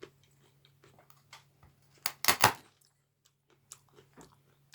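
Light clicks and knocks of a chef's knife and a pencil being handled, with a louder clatter of several knocks about two seconds in, over a faint steady hum.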